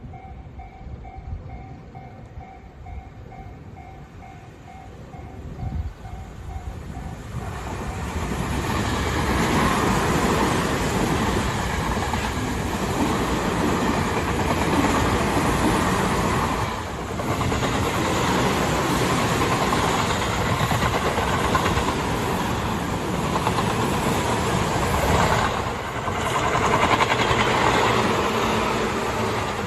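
A Tobu Tojo Line train approaching and passing close by, its wheels rumbling and clattering over the rails. Its noise builds over about the first seven seconds and stays loud for the rest, with two brief dips. Before the train arrives, a faint tone repeats rapidly.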